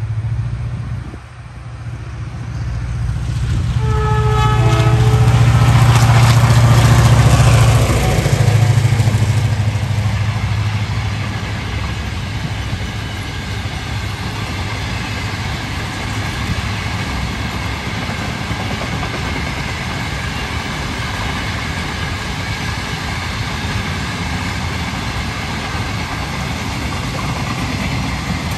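Empty cattle train passing close by. The locomotive comes by with a brief horn sound about four seconds in, and its low drone is loudest a few seconds later. After that, the empty cattle wagons roll past with a steady rattle.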